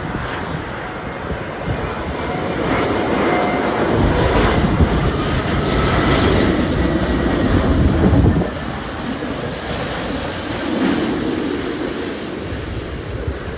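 Jet airliner passing close: a loud rushing engine noise with a faint sliding whine, building to its loudest in the middle and dropping off suddenly about eight seconds in.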